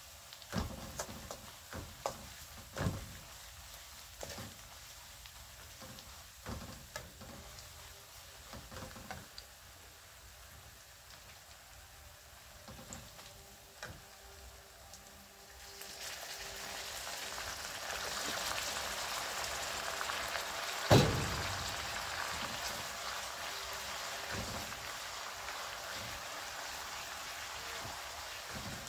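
Sliced aromatics and red chillies frying in oil in a steel wok, with a metal spatula scraping and tapping the pan. The sizzle grows louder about halfway through, and a few seconds later the spatula strikes the wok once, sharply.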